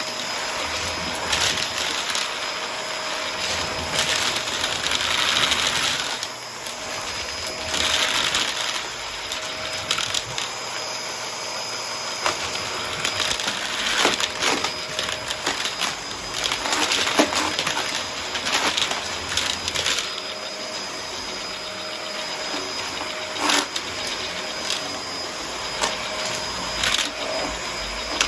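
Vacuum cleaner running with a steady motor whine and airflow hiss, sucking up coins that click and clatter at irregular moments as they are pulled in.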